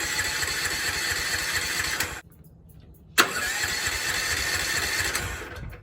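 Electric starter cranking a 420cc single-cylinder go-kart engine in two tries of about two seconds each. Each try starts with a sharp click and a whine that rises then holds steady. The engine cranks but does not catch.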